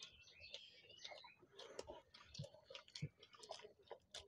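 Close-up eating sounds: chewing with many soft, irregular wet clicks and smacks of mouths eating kochuri (fried pea-filled bread) and potato curry by hand.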